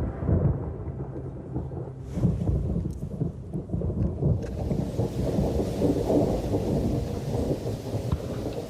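Thunder rumbling through a tropical rainstorm, with the hiss of rain growing heavier about four seconds in.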